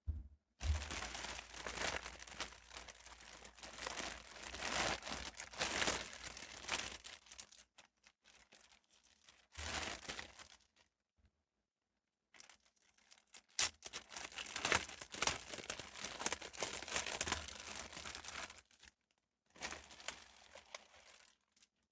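Packaging being handled by hand: crinkling and tearing in long rustling stretches, broken by a few short pauses.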